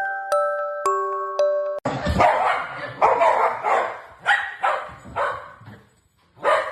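A few seconds of light plucked-note music, then a dog barking repeatedly in quick barks about half a second apart, with one more bark after a short pause near the end.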